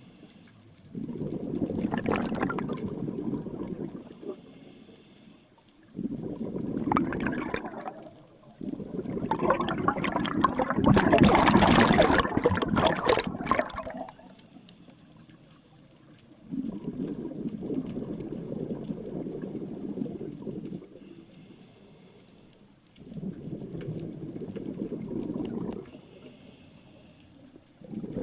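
Scuba diver breathing through a regulator underwater. Exhaled bubbles rumble in bursts every few seconds, with a long, louder exhale about nine seconds in. A faint hiss of the regulator is heard on some of the inhales between them.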